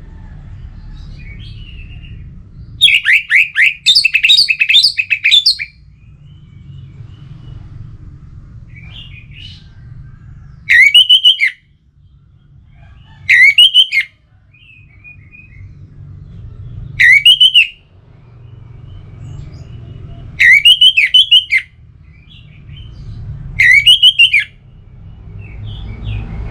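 Orange-headed thrush singing: a long run of rapid, tumbling notes about three seconds in, then short phrases repeated every few seconds, over a low steady rumble.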